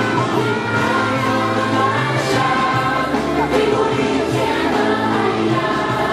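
A chorus of young kindergarten children singing together over instrumental accompaniment with a steady bass line.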